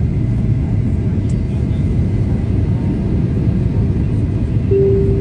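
Steady low rumble of an airliner in flight, the engine and airflow noise heard inside the passenger cabin. A single steady tone sounds near the end.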